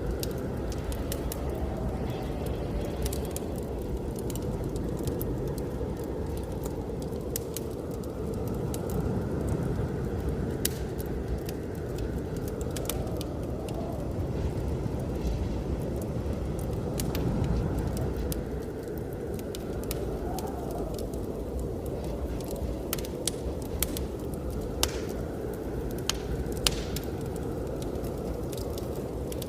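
Wood fire crackling in a fireplace, with scattered sharp pops, over a steady low rush of snowstorm wind that swells and eases.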